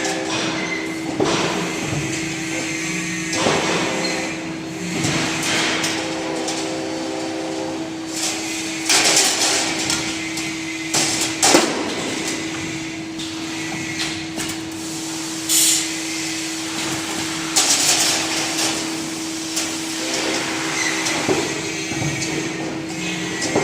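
Automatic clothes-hanger forming and welding machine running: a steady hum with irregular metallic clanks and short bursts of hissing noise as it works through its cycles.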